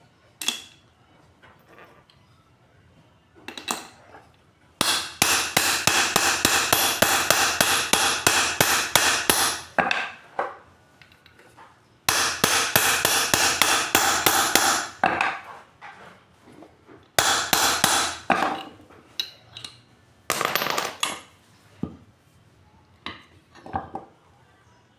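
Hammer striking metal in quick runs of rapid, ringing blows, the longest lasting about five seconds, with pauses and a few single knocks between. This is part of fitting new bearings and a new seal to an electric water pump.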